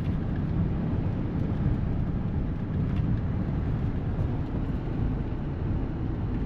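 Steady low rumble of a 1995 Chevy S10's 4.3-litre V6 and road noise while the truck is driven, heard from inside the cab.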